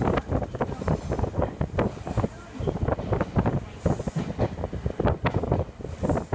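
Electric commuter train heard from inside the passenger car while running: wheels and car body give a rapid, irregular stream of clattering knocks, with faint high wheel squeals now and then.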